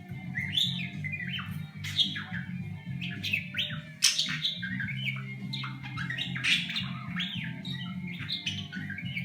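Budgerigar chattering in quick whistled chirps that sweep up and down, an impression of R2-D2's beeps, over background guitar music.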